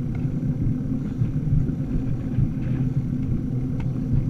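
Steady low rumble of riding along: road and wind noise, with a few faint clicks.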